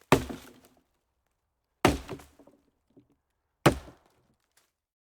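Three sharp impacts, evenly spaced about two seconds apart, each dying away quickly.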